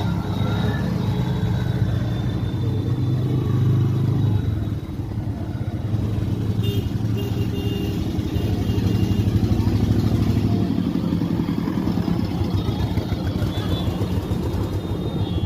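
A vehicle engine running, a steady low hum with rapid pulsing.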